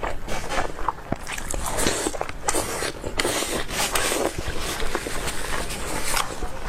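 Close-miked eating sounds: a person chewing and biting food, with irregular wet mouth clicks and smacks.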